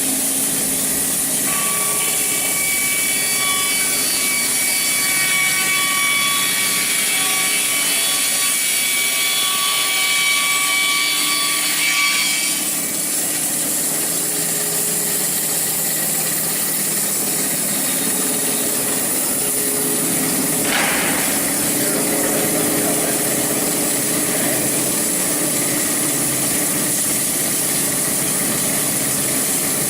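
SAWSPEC 660 narrow bandsaw mill running steadily, its thin band blade sawing through a log. Its steady tones shift a little under halfway through.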